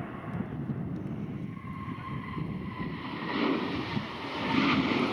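Jet airliner engine noise on a takeoff, mixed with wind buffeting the microphone, swelling louder near the end.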